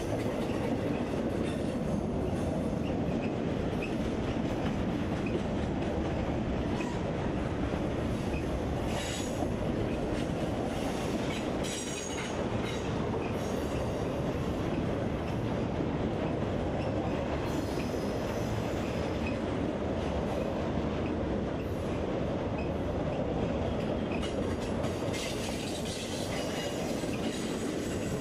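Double-stack intermodal freight train cars rolling steadily past close by: a continuous rumble and clatter of steel wheels on the rails. Brief high wheel squeals come about nine seconds in and again near the end.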